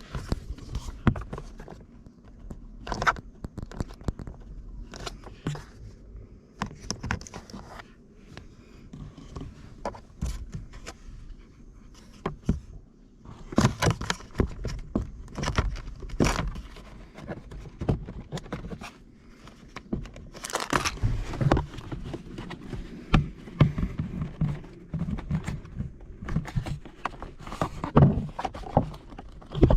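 Irregular clicks, knocks and scrapes of parts being handled and fitted by hand during a cabin air filter change in a Toyota Voxy, with busier bursts of knocking about halfway through and again near the end.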